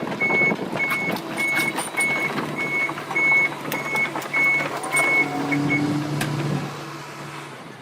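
Backhoe reversing alarm beeping steadily, a little under twice a second, over its running engine, with scattered knocks; the beeping stops about six seconds in.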